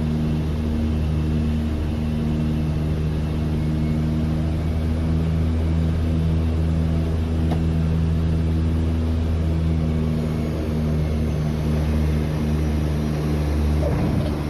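Cabin noise of a de Havilland Canada DHC-6 Twin Otter: its twin turboprop engines and propellers make a steady drone with a low hum of several even tones, heard from inside the cabin.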